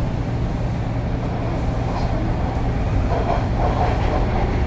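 Toronto TTC Line 2 subway train running between stations, heard inside the car: a steady low rumble of the wheels on the track and the running gear.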